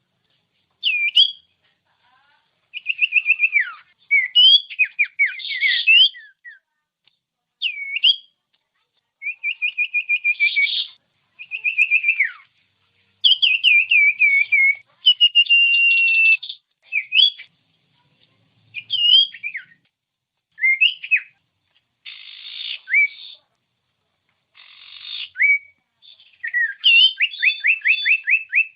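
Common iora (cipoh) singing a run of separate clear whistled phrases with short pauses between them. The phrases mix quick trills of repeated notes with rising and falling slurred whistles.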